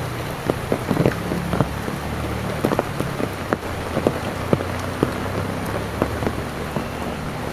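Heavy rain falling steadily, with frequent sharp drops striking close by at irregular intervals.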